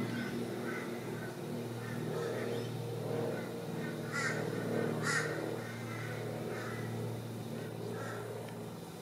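A bird calling outside, with two loud, harsh calls about a second apart in the middle and fainter calls around them, over a steady low hum.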